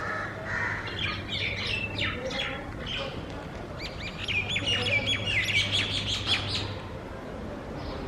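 Rose-ringed parakeets calling: rapid runs of shrill chirps in two bouts, the second, starting about four seconds in, the louder.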